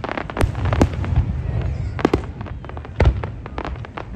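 Fireworks display: aerial shells bursting in a handful of sharp bangs, roughly a second apart, over a continuous crackle and low rumble.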